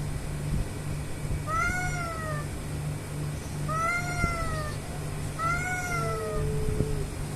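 A cat yowling three times, drawn-out calls that rise and then fall in pitch, the last trailing into a lower held note: the warning yowls of a cat squaring off with another cat. A steady low hum runs underneath.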